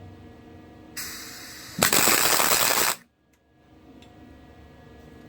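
Electric arc welder striking an arc: a hiss about a second in, then about a second of loud, crackling arc that cuts off abruptly, a short weld on the steel axle truss.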